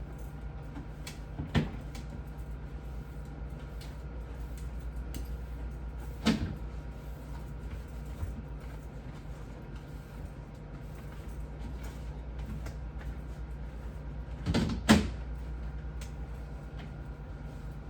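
Occasional knocks and clunks from handling a refrigerator's parts during cleaning, over a steady low hum: one knock about a second and a half in, another about six seconds in, and a louder double clunk near the end.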